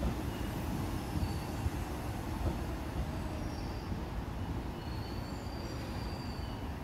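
Low rumble of an electric commuter train running on the line, easing off slowly, with a few faint, brief high wheel squeals.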